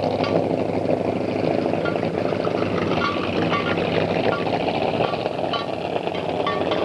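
A car engine running steadily, with a light irregular ticking over it.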